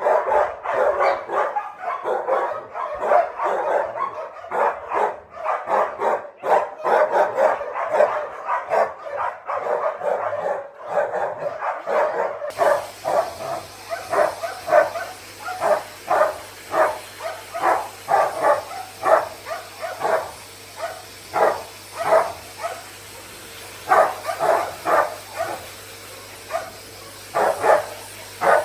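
Dogs barking: dense, overlapping barks for about the first twelve seconds, then, after an abrupt change in the background to a steady low hum, barks come in short runs of about two a second with brief pauses.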